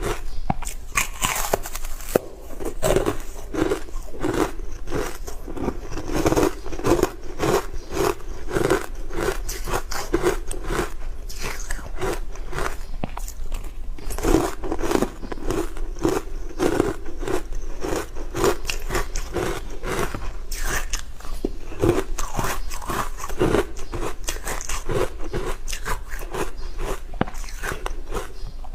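Hard frozen ice being bitten and chewed close to the microphone: a steady run of sharp crunches, about two a second.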